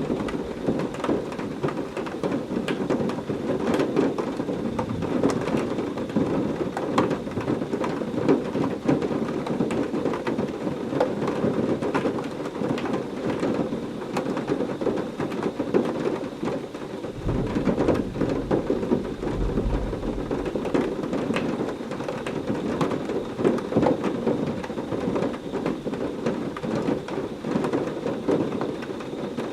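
Heavy rain falling steadily, a dense hiss full of small drop ticks. A low roll of thunder rumbles underneath from a little past halfway for about four seconds.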